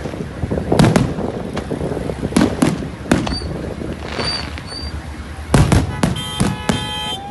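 Fireworks and firecrackers going off in a celebration: about ten sharp bangs at irregular intervals, several in quick pairs, with a cluster late on.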